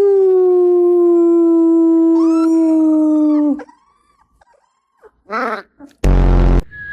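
Labrador puppy howling: one long, steady, held note lasting about three and a half seconds that dips slightly at the end. About five seconds in comes a short falling whine, and just after six seconds a loud half-second burst.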